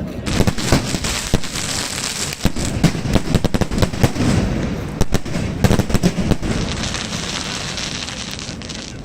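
Fireworks going off in quick succession: many sharp bangs over a dense crackling hiss.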